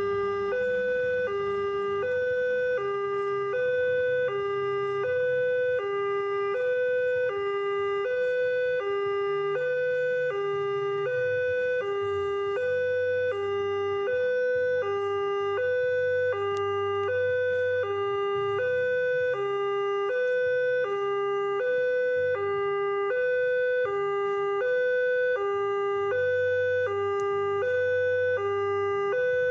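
Railway level crossing warning alarm sounding, alternating between a lower and a higher tone, each held a little over half a second, in an even repeating pattern: the signal that a train is approaching and the crossing is closing.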